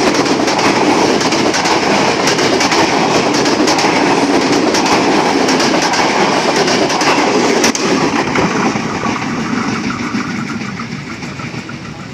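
A KRL commuter electric train, a former Tokyo Metro 6000 series set, passing close by at speed, its wheels clattering on the rails. The sound fades from about eight seconds in as the train moves away.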